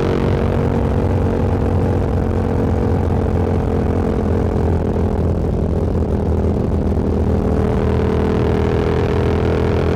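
Motorcycle engine running at a steady cruise, a constant pitched drone under wind and road hiss. The hiss eases about a second in and rises again later.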